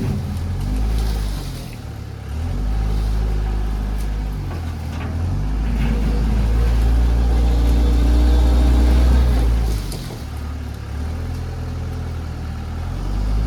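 Tractor engine running, its pitch and loudness rising and falling several times as the load changes, loudest from about six to nine seconds in.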